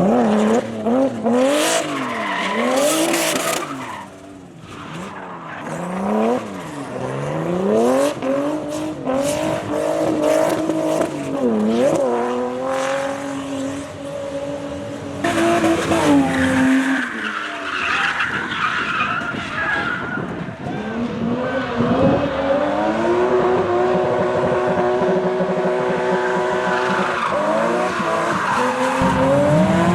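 Drift cars' engines revving up and down again and again, with tyres skidding and squealing. In two stretches, one near the middle and one in the later part, the revs are held steady for a few seconds.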